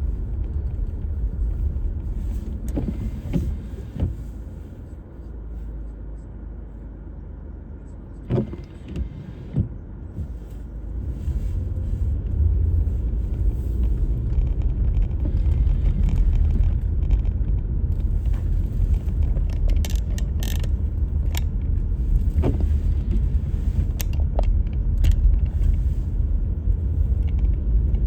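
A car driving: a steady low rumble of engine and road noise, with scattered knocks and clicks. It drops quieter for several seconds after a few early knocks, then rises again and stays louder.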